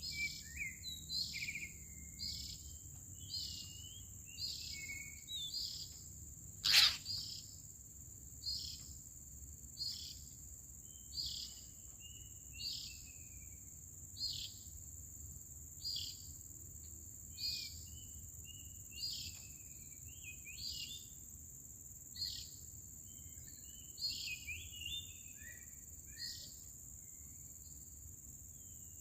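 A bird calls repeatedly, a short sharp note about once a second with some lower twittering between. Behind it runs a steady high-pitched insect drone. A single sharp click comes about seven seconds in.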